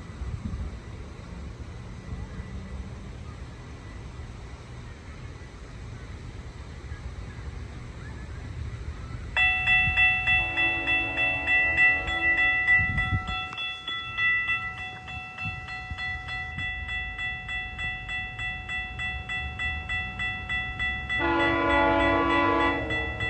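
Wind on the microphone at first. About nine seconds in, a level-crossing warning bell starts ringing steadily. The horn of GO Transit cab car 254 sounds in a long blast a second later, and blows again near the end as the train comes up to the crossing.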